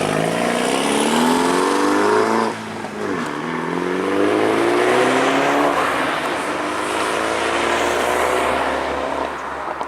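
Mini John Cooper Works turbocharged four-cylinder with its exhaust valve open, accelerating hard: the engine note rises for about two and a half seconds, breaks off briefly at a gear change, rises again through the next gear, then holds steadier and fades near the end.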